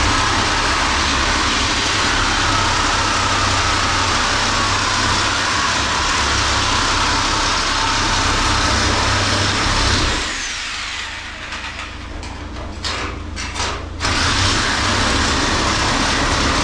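Power tool cutting into a steel meat rail, a loud steady grinding noise. It eases off for a few seconds about ten seconds in, then bites into the metal again.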